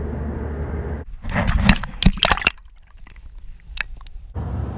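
Wind rumbling on the microphone, then about a second in a burst of loud splashing and knocking lasting about a second and a half, followed by a few lighter clicks.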